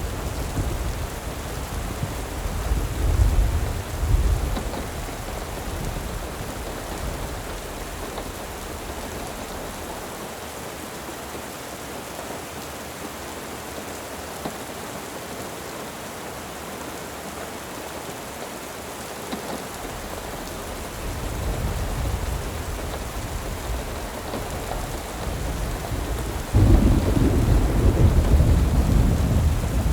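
Steady rain with rolls of thunder. There is a low rumble about three seconds in, another building about twenty seconds in, and a louder one that starts suddenly near the end.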